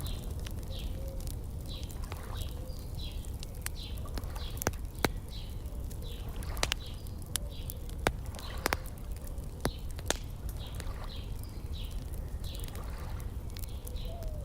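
Wood fire crackling with scattered sharp pops, over a steady low wash of lake water, while a bird repeats short chirps about twice a second.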